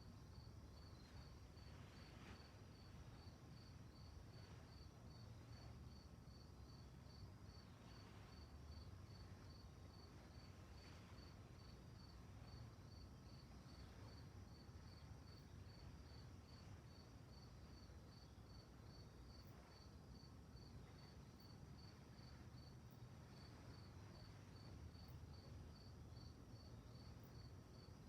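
Crickets chirping faintly in an even, steady pulse of high chirps about twice a second, over a low steady rumble.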